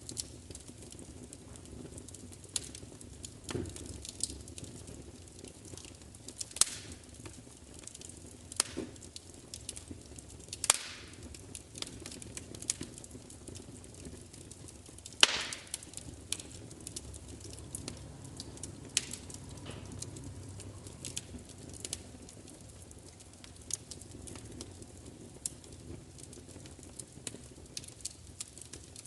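Wood fire crackling: irregular sharp pops and snaps, the loudest about fifteen seconds in, over the steady low hiss and rumble of the burning.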